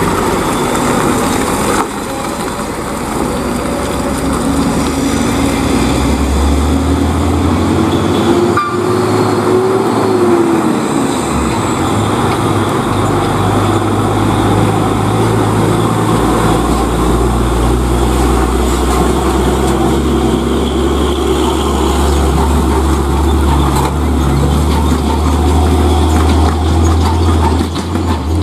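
Heavily loaded tronton (three-axle) truck's diesel engine running loud and steady at low pitch. Partway through, a whine rises and then falls away.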